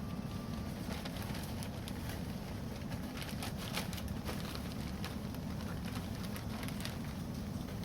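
Wood campfire burning: irregular crackles and pops over a steady low rumble.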